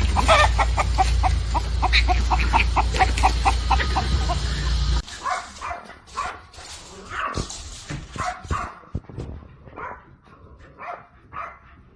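A dog yipping rapidly, about five short yips a second, over a steady low rumble. About five seconds in, the rumble cuts off and the dog gives scattered barks and whines.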